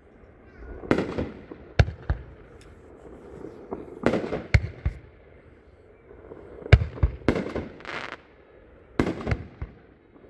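A 500-gram consumer firework cake, Loud and Rowdy, firing its shots: about a dozen sharp aerial bursts in clusters of two or three, a second or two apart.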